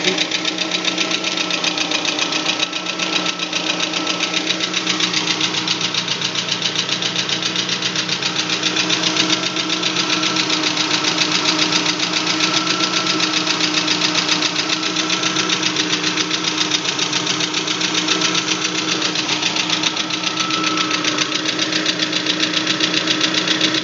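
Lada VAZ 21124 1.6-litre 16-valve four-cylinder engine idling with a steady, fast, regular knock. This is the engine knock the owner is trying to track down.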